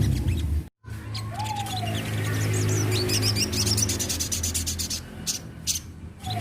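Crimson sunbird (sogon) singing a rapid, high-pitched twittering run of thin chirps. The sound cuts out briefly just before one second in.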